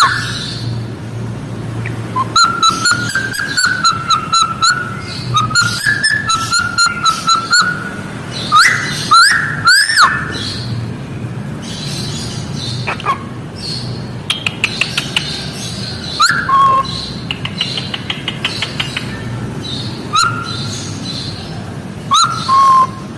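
A songbird in full song: strings of short clear notes, a few loud rising-and-falling swoops, and a fast rattling trill partway through, over a steady low hum.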